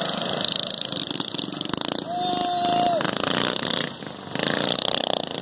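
Small minibike engines running, with a fast, even pulsing. About two seconds in, a single steady tone sounds for about a second.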